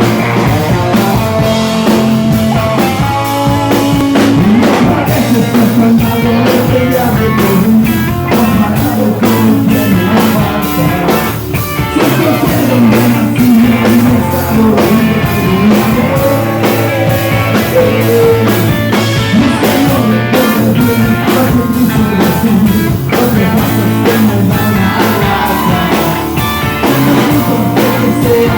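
Rock band playing live: a drum kit keeping a steady beat under guitars.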